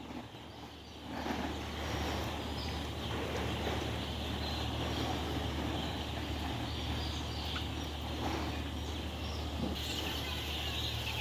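A flock of layer hens calling and clucking, with many short high calls scattered through, over a steady low hum; it grows louder about a second in.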